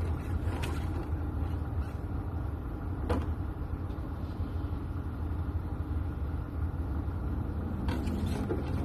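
A steady low hum throughout, with a few light plastic clicks as a drawer is slid into an assembled plastic fridge organizer.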